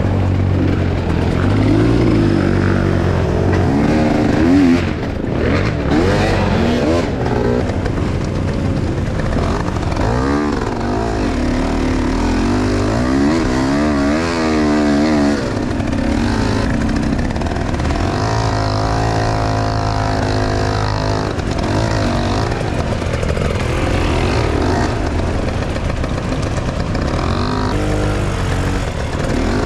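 Enduro motorcycle engine revving up and down over and over, its pitch rising and falling every second or two as the bike picks its way through a slow, crowded section of track. Other motorcycles' engines run alongside it.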